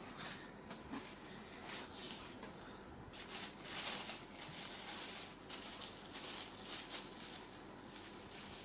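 Faint, uneven rustling and handling noise from unpacking a barbecue grill, with a louder stretch of rustling around the middle.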